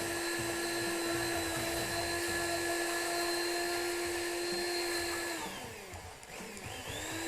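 Immersion (stick) blender motor running at a steady high whine while puréeing a warm mixed-berry sauce. About five seconds in it winds down and then spins back up to full speed.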